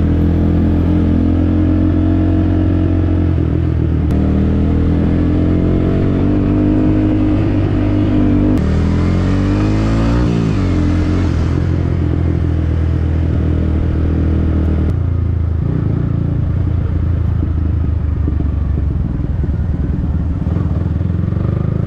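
Yamaha MT-15's single-cylinder engine through a Yoshimura aftermarket exhaust, running under way at a steady pitch, with the engine note dipping and climbing again about ten seconds in.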